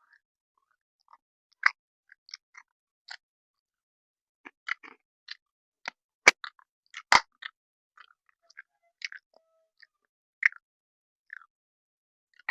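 Mouth sounds of a person chewing thick, creamy instant noodles (Buldak Carbonara): irregular short wet clicks and smacks, with a few louder ones midway.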